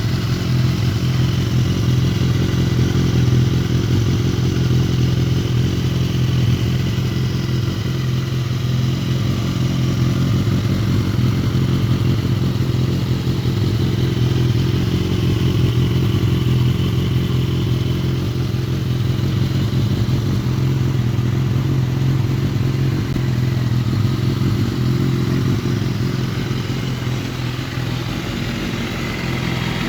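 BMW S1000RR's 999cc inline-four engine idling steadily through its exhaust.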